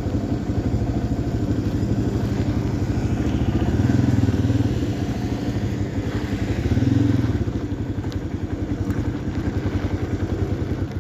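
Yamaha XT350's single-cylinder four-stroke engine running under way, swelling louder with throttle about four and seven seconds in.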